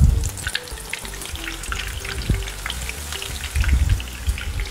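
Aubergine slices shallow-frying in extra-virgin olive oil in a pan, with a steady busy crackle and sizzle of the hot oil. A few low thumps sound over it, the loudest right at the start.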